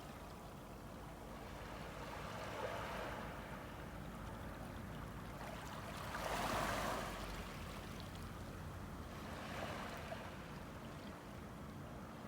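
Ocean waves washing in on the shore, the surf noise swelling and falling back about every three to four seconds, loudest about halfway through.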